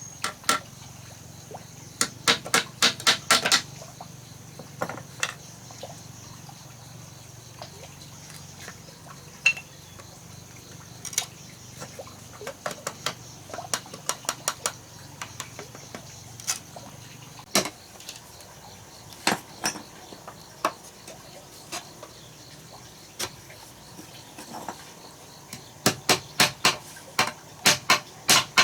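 Hammer blows on wood: short fast runs of strikes, like nails being driven, with scattered single knocks between.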